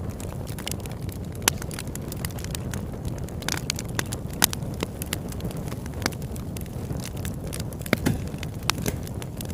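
Wood campfire burning: a steady low rush with scattered sharp crackles and pops.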